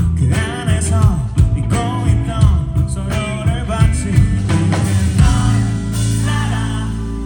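Rock band playing live, with guitar to the fore over bass. About five seconds in, the band settles into long held notes.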